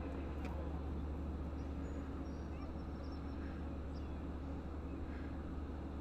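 EMD DE30AC diesel locomotive idling with a steady low hum. Faint bird chirps come in now and then.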